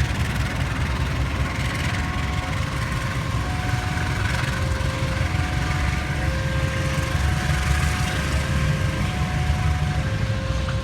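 Steady low rumble of a train running at a railway station, with a two-tone electronic warning signal alternating high and low, about one tone per second.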